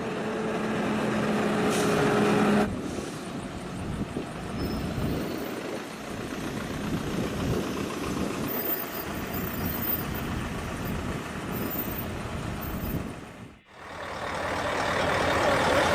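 Heavy-haulage trucks driving past, engines running amid road and tyre noise. A steady droning tone holds for the first few seconds and stops abruptly. Near the end the sound drops out briefly, then returns louder.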